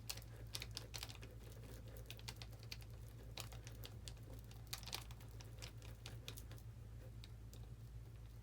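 Two-part epoxy being mixed by hand: faint, irregular small clicks and scrapes of a mixing stick against the mixing surface, over a steady low hum.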